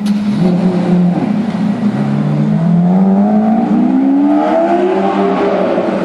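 Car engine accelerating, its pitch climbing smoothly for about three seconds from two seconds in, over the steady hum of an idling engine.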